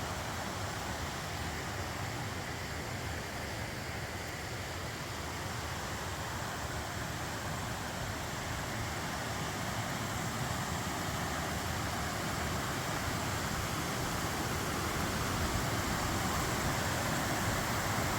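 Steady rushing of a well-flowing waterfall, growing gradually louder toward the end.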